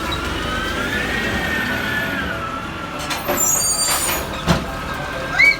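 Garbage truck running with a steady low rumble and a whine that slowly rises and falls. Partway through come a few knocks and brief high squeals.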